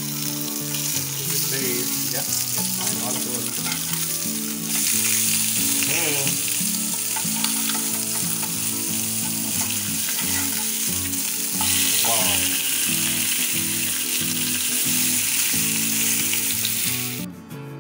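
Kingfish steaks shallow-frying in hot oil, a steady sizzle that grows louder about five seconds in and again about twelve seconds in, with a spatula scraping and turning the pieces in the pan. The sizzle cuts off near the end.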